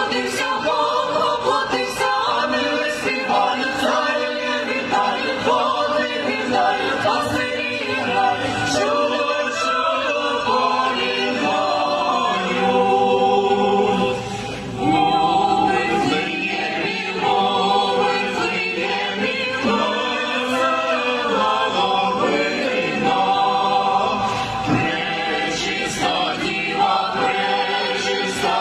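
A choir of mixed voices singing a Ukrainian Christmas carol (koliadka) in harmony, with a short break between phrases about halfway through.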